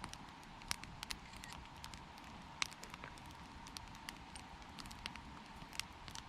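Wood fire crackling: irregular sharp pops and snaps over a low hiss, with a few louder pops spread through.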